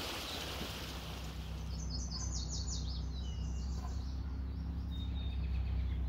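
A small songbird sings a quick series of about ten high, falling notes, starting about two seconds in and trailing off into a few fainter notes. Beneath it there is a steady low hum, and a rushing hiss fades out over the first second or two.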